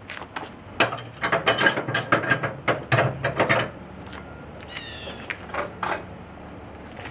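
Flatbed trailer strap winch being cranked tight with a winch bar, its ratchet pawl clicking in quick runs, tensioning a cargo strap over the load. A short squeak comes about five seconds in.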